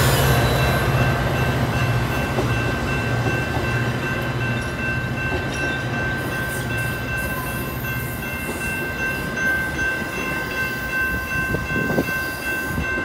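Metra commuter train passing through a grade crossing: the EMD F40PH-series diesel locomotive's engine rumbles as it goes by and fades out about eight seconds in, while the bilevel coaches keep rolling past. Steady high-pitched ringing tones run over it throughout.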